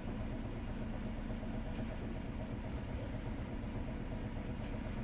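Steady low hum and rumble of a Toyama Chiho Railway 7000-series streetcar, with a few faint steady tones running through it.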